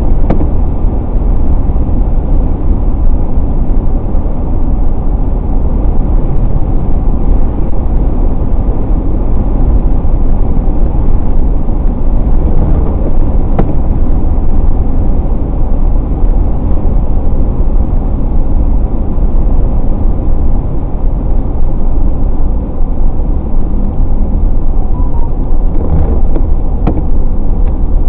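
Steady in-car driving noise of a car at road speed: a constant low rumble of tyres and engine, with a faint tick about halfway through and a couple more near the end.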